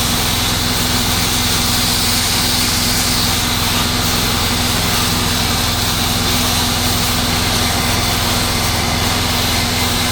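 Pressure washer's small gas engine running steadily at constant speed, with a continuous hiss of water spraying from the wand.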